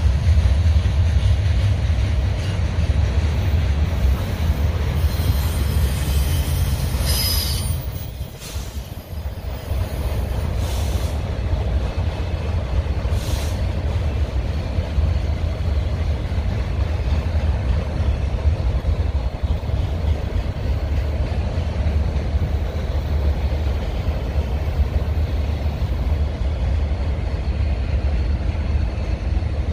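Freight cars of a Union Pacific manifest train rolling past: a steady low rumble of steel wheels on the rails. A brief high-pitched wheel squeal comes about five to seven seconds in, and a shorter one around thirteen seconds.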